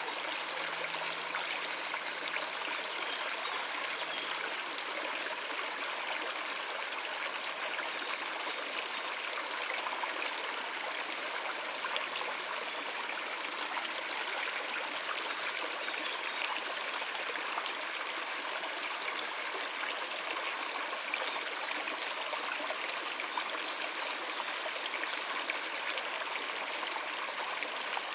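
Stream water running over rocks, a steady, even rush.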